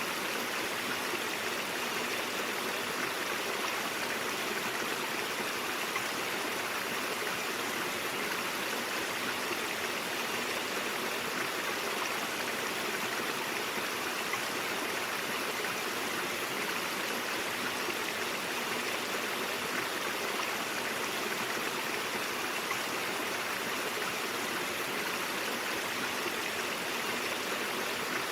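Brook water flowing in a steady, unbroken rush.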